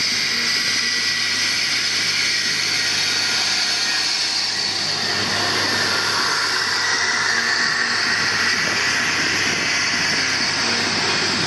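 Regional multiple-unit train passing close by at low speed, its running gear and engine making a steady noise, with strong wind noise on the microphone.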